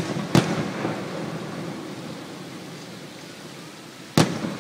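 Aerial firework shells bursting: a sharp bang just after the start and another near the end, each followed by a long rolling echo off the valley sides.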